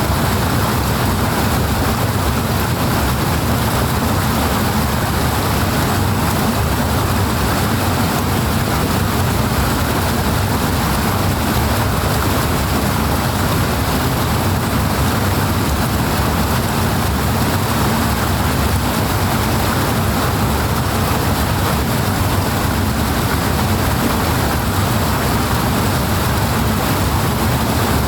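Loud rushing water, a steady unbroken roar of flowing stream water with no change.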